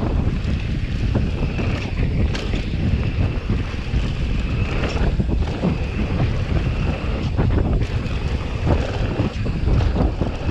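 Wind buffeting the microphone as a loud, steady rumble, with scattered rattling knocks throughout.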